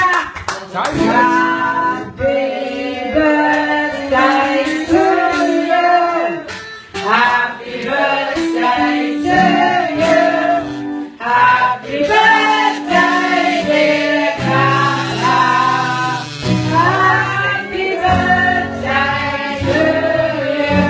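A song performance: several voices singing over an instrumental backing with a steady bass line, the melody moving in short phrases.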